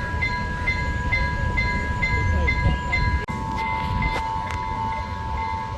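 Railway level crossing warning alarm sounding: a steady electronic tone with a short beep repeating about twice a second. The tone shifts slightly after a brief dropout about halfway through.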